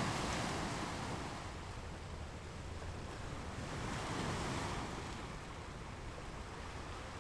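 Ocean waves washing onto a shore: a steady hiss of surf that swells twice, at the start and again about four seconds in, each time easing off as the water runs back.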